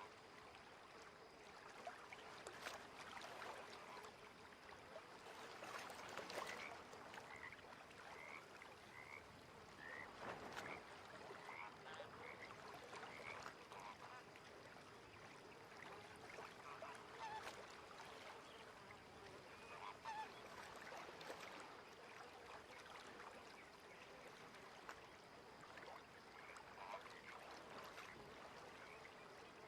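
Faint lakeside ambience: a soft steady hiss with many short, scattered animal calls, among them small groups of brief high chirps.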